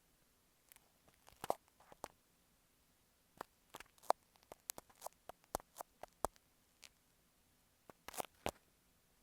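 Fingertips tapping and scratching directly on an earphone microphone, giving close, crisp clicks and scratches at an irregular pace, thickest in the middle and a couple more near the end.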